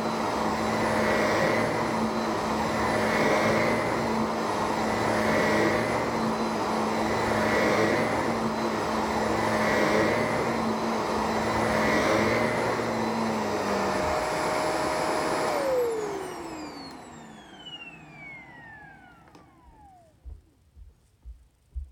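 Shark vacuum cleaner running, its noise swelling about every two seconds as it is pushed back and forth. Near the end it is switched off, and the motor's whine falls steadily as it spins down.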